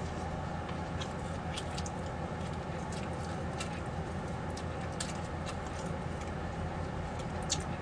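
A person chewing food, with scattered small clicks and smacks over a steady low hum.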